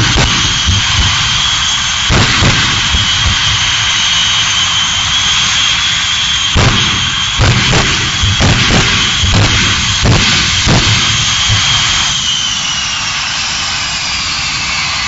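Jet engines of a jet-powered truck running with a steady high whine, broken by a series of sharp bangs. From about twelve seconds in the whine falls in pitch as the engines spool down.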